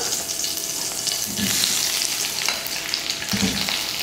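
Cut okra (ladies' finger) frying in hot oil in a kadai, a steady sizzle, while it is stirred, with a soft knock about a second in and again near the end.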